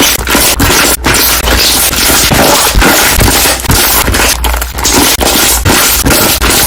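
Slime being pressed and folded, its trapped air bubbles bursting in a rapid, loud crackle of pops: the dense 'construction-site' bubble sound.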